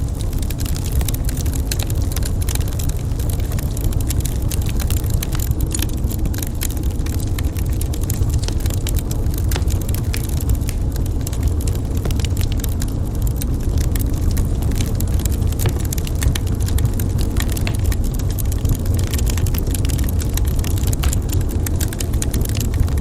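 Wood fire burning in a fireplace, crackling and popping with many small irregular snaps, over a steady low rumble.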